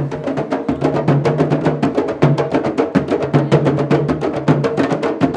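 Candombe drumming: a fast, dense rhythm of drum strikes with a low, booming drum tone underneath.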